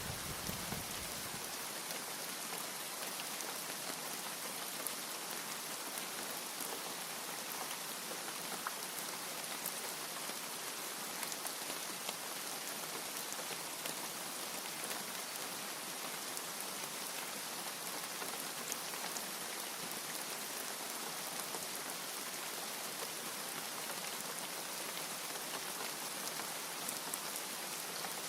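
Steady rainfall with scattered close drop ticks. The last of a low thunder rumble fades out about a second and a half in.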